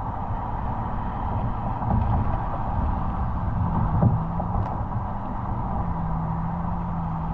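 Exhaust of a Mercedes-Benz SL600's twin-turbo V12, heard close up from outside the car while driving: a steady low rumble. About four seconds in there is a single thump, and from then on a steady low drone holds.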